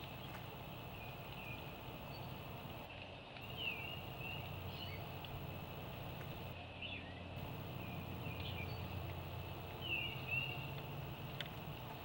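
Birds calling outdoors: scattered short high chirps and a few swooping notes, the loudest about four seconds in and again near ten seconds, over a steady low background noise.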